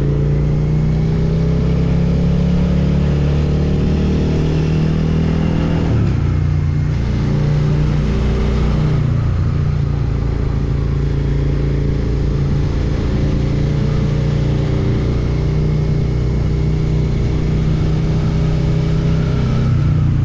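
Suzuki SV650X's 645 cc V-twin engine running under way. Its note shifts about six seconds in, then holds steady.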